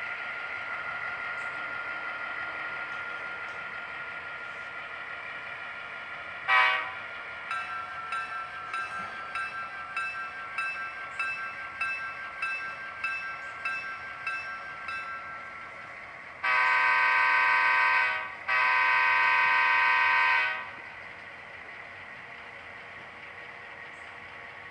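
Model diesel locomotive's DCC sound decoder playing through its small speaker. The engine sound runs steadily, then from about six and a half seconds a bell rings at about two strokes a second for some eight seconds. Near the end come two long horn blasts.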